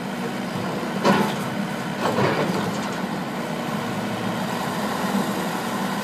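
Excavator's diesel engine running steadily, with a loud bang about a second in and a longer harsh scraping sound a second later as the machine works its way up.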